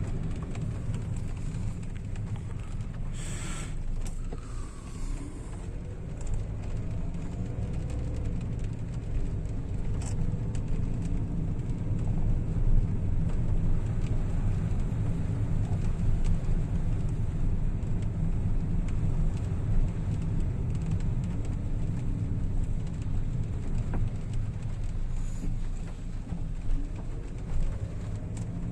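A car driving along: steady low engine and road rumble, with the engine pitch rising and falling gently now and then.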